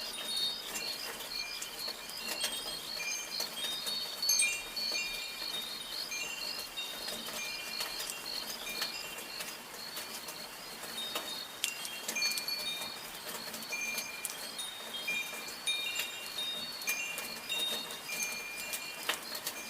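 Wind chimes ringing irregularly, their tubes sounding a few fixed high notes over and over, with scattered faint clicks beneath.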